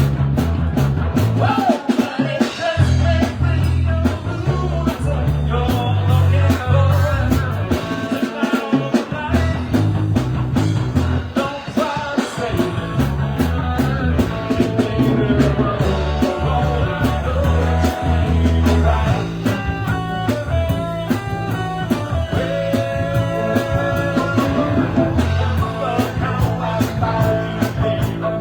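Live band playing a rock song, with a steady drum beat and a strong bass line.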